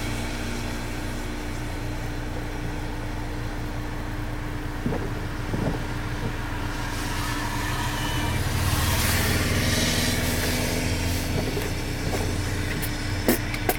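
Car engine running steadily, heard from inside the cabin. It swells briefly about eight seconds in, and a few sharp clicks come near the end.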